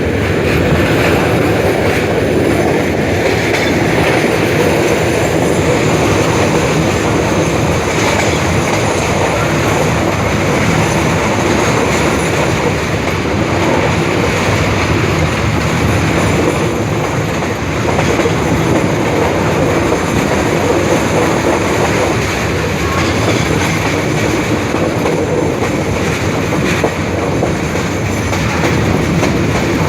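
Moving passenger train: a steady rumble of the carriages running along the track, with the wheels clattering over the rails.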